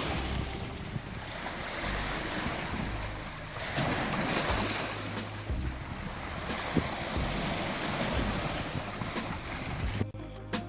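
Lake Superior waves washing on the shore, swelling and ebbing every couple of seconds, with wind buffeting the microphone. Music cuts in near the end.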